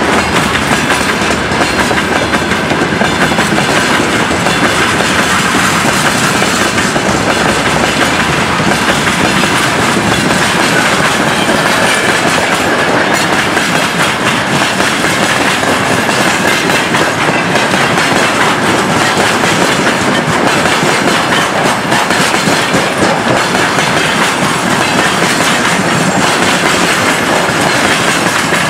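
Freight train wagons rolling past at close range, a mixed string of open gondolas, grain hoppers and container flatcars, making a steady loud rolling rumble of steel wheels on the rails.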